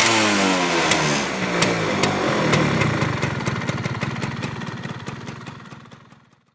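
Two-stroke Yamaha F1ZR motorcycle engine with an aftermarket AHM exhaust, revs falling back from a blip, then running on at a steady beat and dying away near the end.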